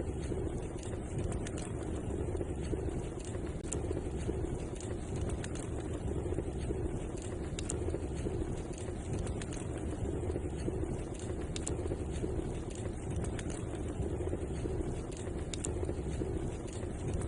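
Fire burning in a fireplace: a steady low rush with scattered sharp crackles.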